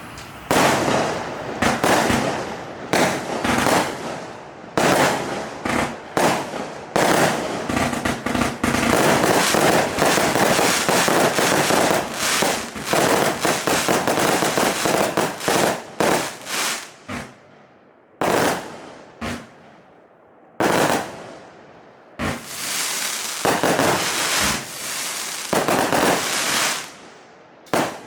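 A 200-shot, 20 mm consumer firework cake firing: a fast run of shots that becomes dense and nearly continuous in the middle, then separate shots with short pauses near the end.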